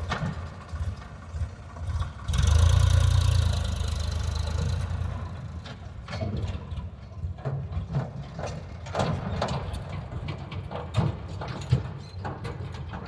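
Tractor engine running, with a loud surge from about two to five seconds in and scattered knocks and clatters throughout.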